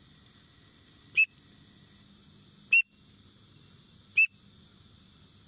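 Teal peep call (duck whistle) blown in three short, sharp high peeps about a second and a half apart. A steady chorus of insects drones underneath.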